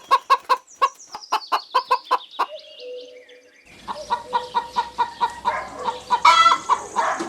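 Hen clucking: a quick, even run of about five clucks a second that fades out. After a short lull, more clucking comes in over low background noise and grows louder near the end.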